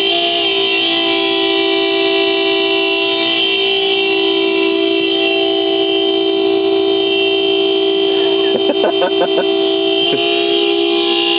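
Vehicle horn held on continuously as two close steady tones, sounded to scare a flock of birds off a runway. A short run of rapid pulses cuts across it about nine seconds in.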